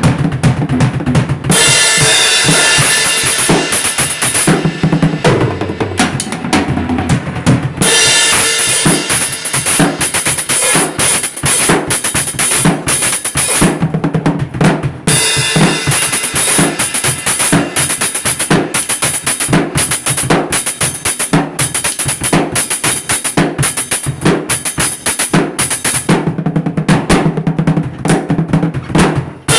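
Music driven by a drum kit, with bass drum, snare and cymbals keeping a steady beat over pitched instruments. The cymbals drop out for short stretches several times.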